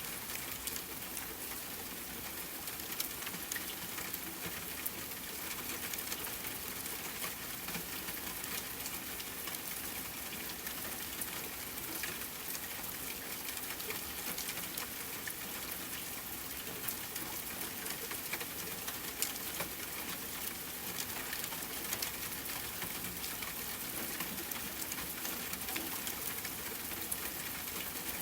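Steady rain falling on a tent, with many small sharp ticks of drops and crackles from a campfire scattered through it.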